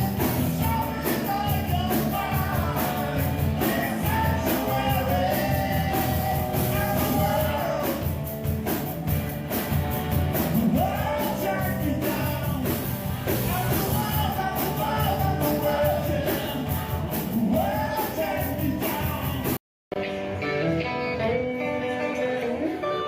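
Live rock band playing with a lead singer. Near the end the sound cuts out for a moment and comes back on a different, somewhat quieter passage of music.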